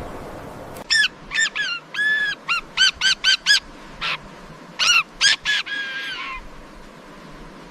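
A bird giving a rapid series of about a dozen short, pitched honking calls, a few of them longer and drawn out, over a faint steady hiss.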